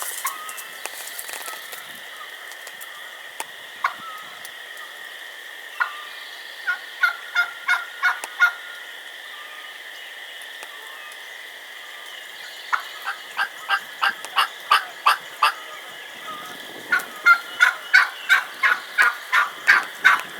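Hen wild turkey giving raspy plain yelps, bordering on excited yelps: three runs of evenly spaced yelps, the last run the longest and loudest.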